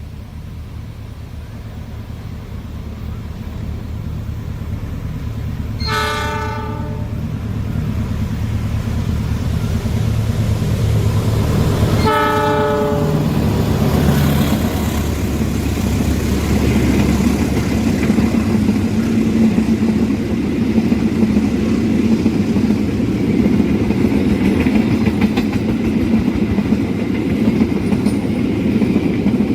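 A train approaching and passing: the low engine noise grows louder, the horn sounds twice about six seconds apart, each blast about a second long, then the carriages roll past with a steady rail noise.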